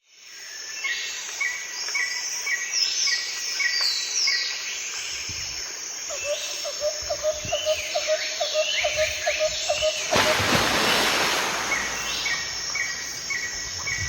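Birds singing and calling, with many short repeated chirps and quick falling whistles. A lower, fast pulsing call runs for a few seconds in the middle, and about ten seconds in a rush of noise washes over the calls for a couple of seconds.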